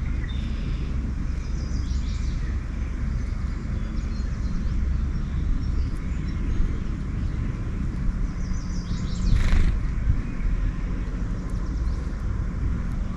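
Backyard songbirds calling and chirping a few times over a steady low rumble.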